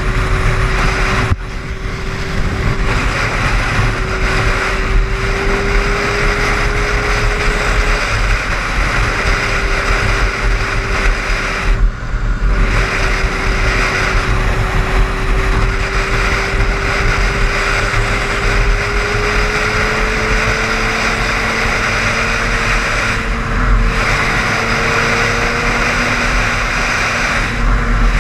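Car driving on a highway: steady road and tyre noise with an engine hum whose pitch slowly rises.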